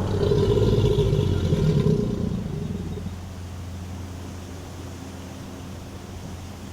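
An alligator bellowing: a deep, low rumble, loudest for about the first two seconds, then easing into a quieter, steady low drone.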